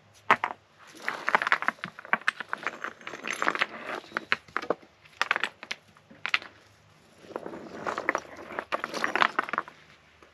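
Rustling and crinkling with scattered clicks and clatters, in two bouts, as things are handled close by.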